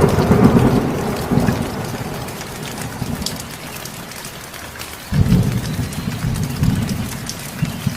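Heavy rain falling steadily with two rolls of thunder: one already booming at the start and fading over a couple of seconds, and a second rumble breaking about five seconds in.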